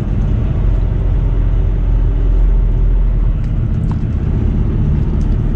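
Semi truck's diesel engine running at low speed, heard from inside the cab as a steady, deep rumble.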